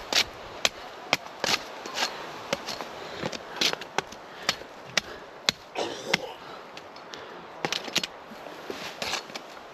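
Hand pruners cutting the lower branches off a young pine tree: a string of sharp, irregular snaps and cracks, about one or two a second.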